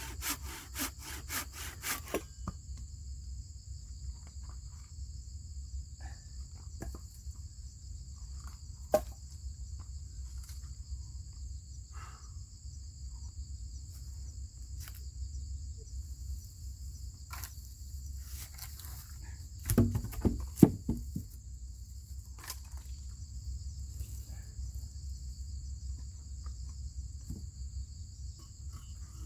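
Hand saw cutting through wood with quick, regular back-and-forth strokes, stopping about two seconds in. Then a steady high insect chorus carries on, with a few louder wooden knocks about two-thirds of the way through.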